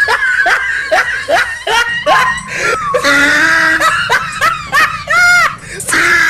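Laughing in quick, even bursts of 'ha-ha-ha', with a short break in the middle and a shorter, higher outburst near the end.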